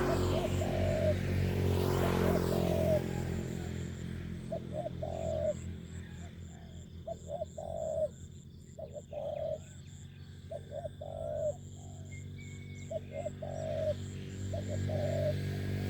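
Spotted doves cooing, repeated phrases of short low coos every second or two. Under them a steady low engine-like hum is louder in the first few seconds, then fades.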